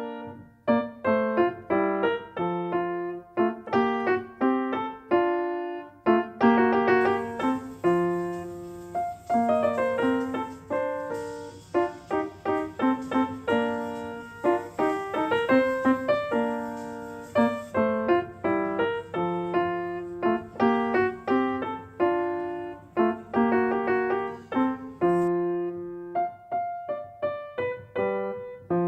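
Background piano music: a light melody of plucky, quickly decaying notes over a repeating bass line.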